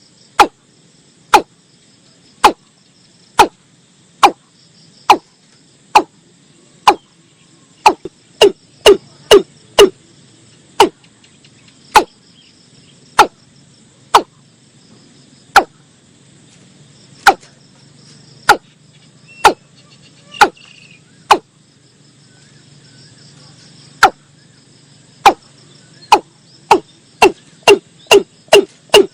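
Watercock calling: a long series of short, hollow, quickly dropping notes about one a second, which speed up around the middle and again near the end. Faint insects buzz steadily underneath.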